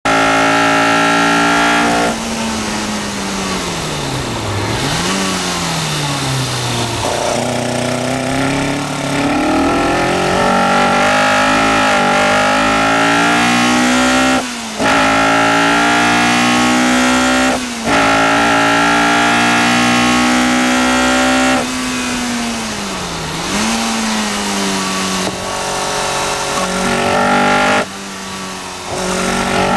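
Caterham R400's four-cylinder Ford Duratec engine driven hard on track, heard from on board. Its pitch climbs under acceleration with brief cuts at two quick upshifts about halfway through, and drops away when the car brakes and slows for corners, before rising again.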